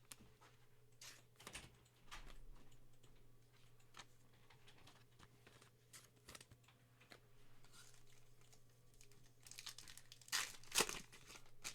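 Foil wrapper of a trading-card pack being torn open and crinkled, with scattered short rustles and a louder rip near the end.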